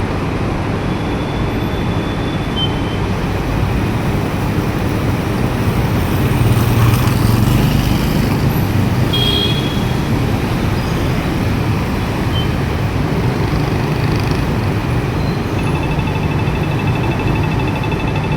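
Steady street traffic noise with vehicles passing, swelling for a couple of seconds midway as a heavier vehicle goes by. Near the end a rapidly repeating high electronic tone starts up: a pedestrian crossing signal at the traffic light.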